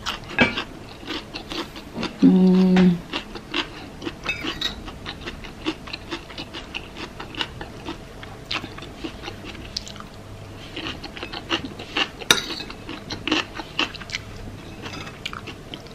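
Close-miked eating: chewing a rice bowl, with frequent small wet clicks and smacks and cutlery clinking against the bowl. A brief hummed voice tone about two seconds in.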